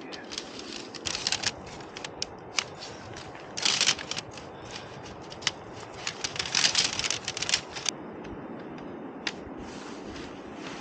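Irregular crisp rustling and crunching from handling gear, in clusters about a second in, around four seconds in and again from six to nearly eight seconds in, over a steady hiss.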